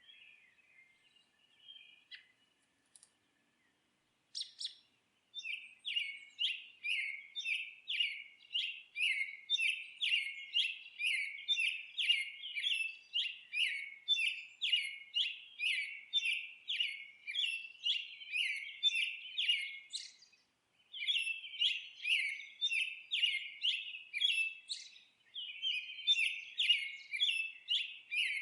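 Bird song: after a few faint chirps, a long run of sharp repeated chirping notes at about two a second, broken by a short pause before it resumes.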